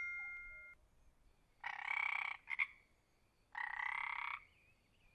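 Frog croaking twice, each croak under a second long and about two seconds apart. The first croak ends with a short extra pulse.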